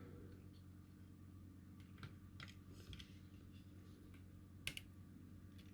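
A few faint, scattered clicks and taps of a small PCB switch being handled and pushed into the holes of a circuit board, the loudest near the end, over a low steady electrical hum.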